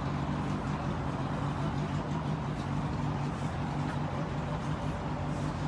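Steady low hum of a motor-vehicle engine running at an even pitch, over background noise.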